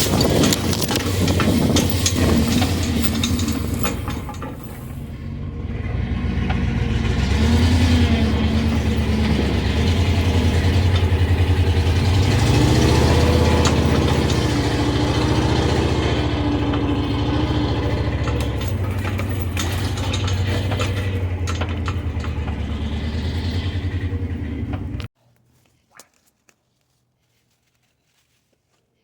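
Truck engine running under load while driving through a wet field, its pitch rising and falling as the throttle changes. The sound stops abruptly about 25 seconds in, leaving near silence with a few faint ticks.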